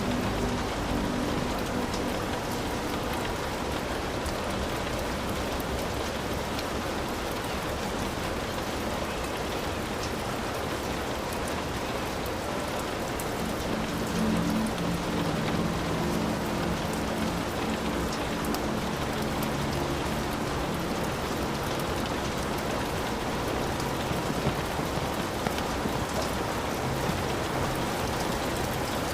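Heavy rain falling steadily, drops pattering on a hut's roof, with a low rumble in the middle stretch.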